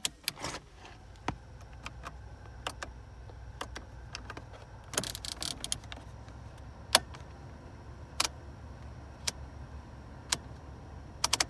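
Heater and AC control knobs and buttons of a 2001 Toyota Camry being clicked through, a sharp click about every second with a quick run of clicks about five seconds in, over a steady low hum.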